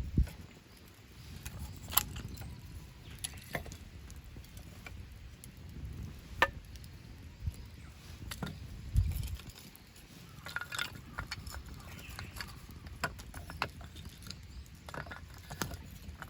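Wood campfire crackling, with scattered irregular pops and snaps, a few sharper ones standing out, over a low steady rumble.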